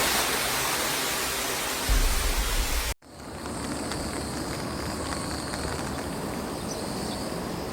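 Steady rushing of water, loud at first, then cut off about three seconds in and replaced by a quieter, even rush.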